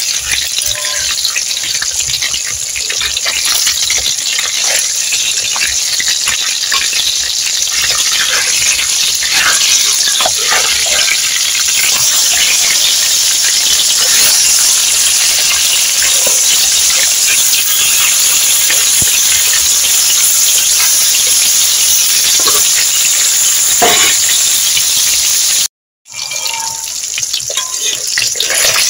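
Food deep-frying in a pan of hot oil: a steady sizzle with scattered pops. It cuts out for a moment near the end.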